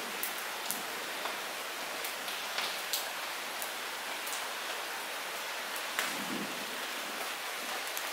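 Light rain falling steadily, a soft hiss with scattered individual drops ticking sharply on nearby surfaces.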